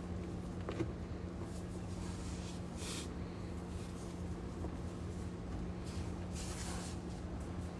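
Cleaning sounds: a single click just under a second in, then two short hissy, spray-like bursts, one about three seconds in and a longer one around six and a half seconds, over a steady low hum.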